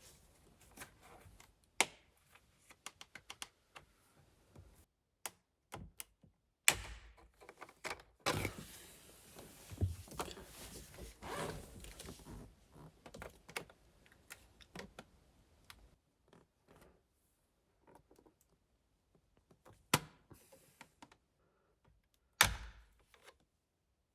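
Scattered clicks, taps and knocks of hands and tools working at the plastic trim plates of a car's steering wheel, with a stretch of rubbing noise about eight to twelve seconds in.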